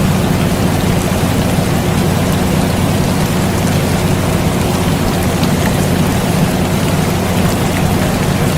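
Air conditioner running with a steady low hum under continuous rain, with faint scattered droplet ticks.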